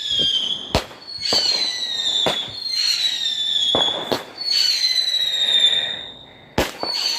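Fireworks firing in a repeating sequence: a sharp bang about every two seconds, each followed by a high whistle that slides down in pitch for over a second. Near the end two bangs come close together.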